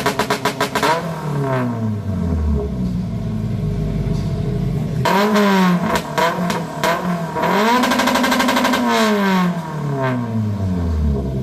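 A car engine through a loud aftermarket exhaust being revved hard. Its revs fall back toward idle at first, climb sharply again about five seconds in and are held with a rapid stutter, then drop back near the end.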